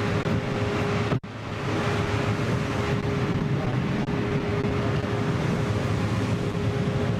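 Loud steady rushing noise over a constant low hum and a faint steady tone, typical of wind and machinery or vehicle noise on the microphone; it cuts out briefly about a second in.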